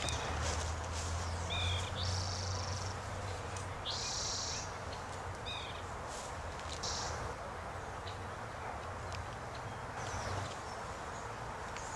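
Small birds chirping now and then in short falling calls, with a few brief high hissing bursts, over a steady low hum.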